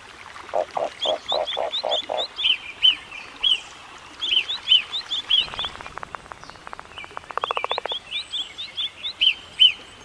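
Small birds chirping: a steady series of short high chirps, a quick row of about six lower notes early on, and a fast buzzing rattle from about five and a half to eight seconds in.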